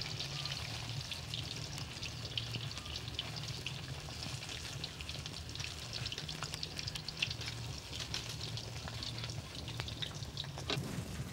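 Chả cốm (green rice patties) deep-frying in hot oil in a wok: a steady sizzle full of small crackling pops.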